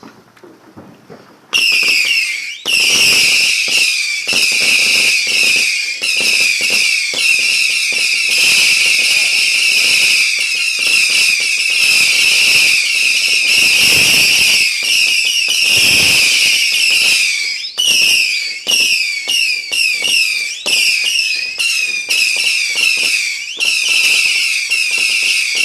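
Fireworks going off, a whistling firework: a sudden start about a second and a half in, then a continuous shrill screech of many overlapping, wavering whistles with crackling pops underneath.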